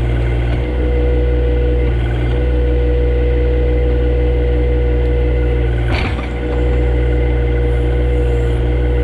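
Compact John Deere tractor engine running steadily under load, with a steady whine over it. A single sharp crack or knock sounds about six seconds in, with a brief dip in the engine sound.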